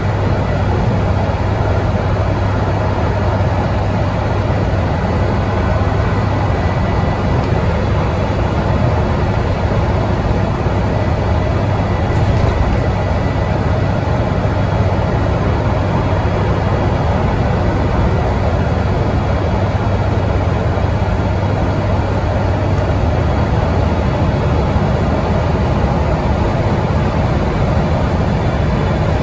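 Scania N94UD double-decker bus engine heard from on board, running at steady high revs, maxed out at cruising speed, with a constant low hum under road and tyre noise.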